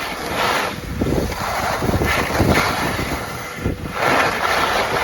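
Strong mountain wind gusting and buffeting the microphone, a loud rushing roar with low rumbles that swells and eases in waves, the strongest gusts a couple of seconds in and again near the end.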